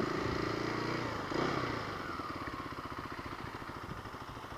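Kawasaki KLX250's single-cylinder four-stroke engine running, its pitch falling over the first second or two as the revs drop, then settling into a steady low putter that slowly gets quieter.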